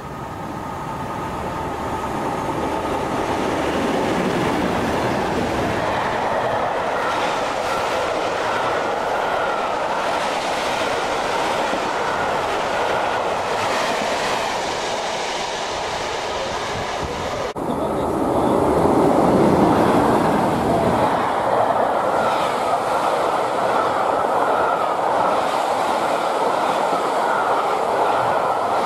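Class 37 diesel locomotives hauling a rake of coaches through a station at speed, getting louder as they approach, then a steady clatter of carriage wheels over the rails. A sudden break a little past halfway gives way to another fast pass, loudest just after the break.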